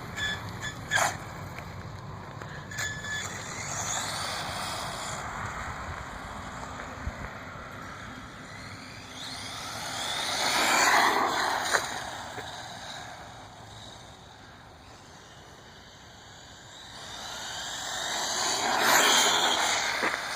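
1/10-scale RC car driving past twice, its motor whine and tyre noise rising and falling as it comes close about halfway through and again near the end.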